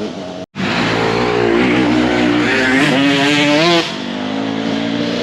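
Motocross bike engine revving hard, its pitch climbing for about three seconds then falling away sharply, then climbing again near the end. A brief dead gap half a second in, like an edit cut.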